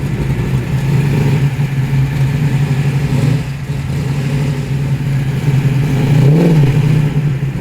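R32 Nissan Skyline GT-R's twin-turbo straight-six running steadily at low revs as it rolls in, with one short blip of the throttle about six and a half seconds in.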